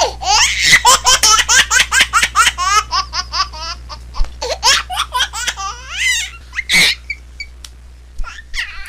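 A baby laughing: a long run of rapid, high-pitched laughs, about five a second, that thins out after about six seconds into a breathy gasp and a few scattered giggles, over a low steady hum.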